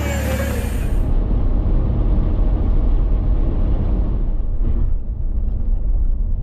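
Low, steady rumble of a vehicle on the move, engine and road noise with no distinct events; the higher hiss drops away about a second in.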